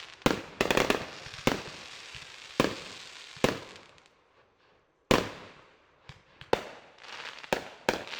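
Fireworks going off: a run of sharp bangs, each with a fading echo, then a short lull. A loud bang comes about five seconds in, followed by several lighter pops.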